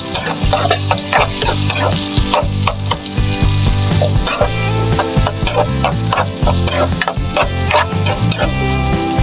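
Onions and garlic sizzling in hot oil in a frying pan, stirred with a plastic spatula that scrapes across the pan bottom in repeated strokes.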